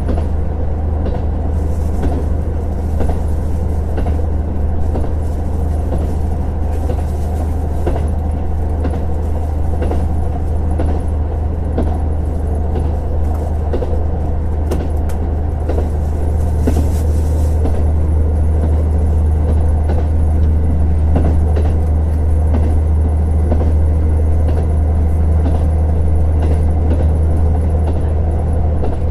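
Inside a JR Hokkaido KiHa 150 diesel railcar under way: a steady low drone from the diesel engine, with wheel and track noise and scattered clicks from the rails.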